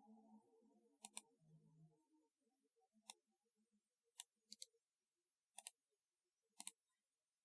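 Faint, scattered keystrokes on a typewriter-style keyboard: single sharp key clicks and a few quick pairs, roughly one a second, stopping about half a second before the end.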